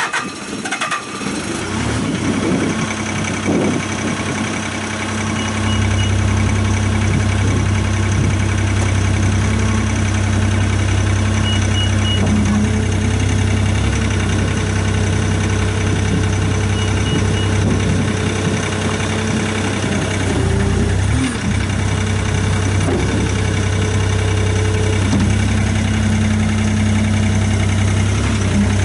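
Bobcat S450 skid steer's diesel engine, just started, settling over the first few seconds into a steady idle.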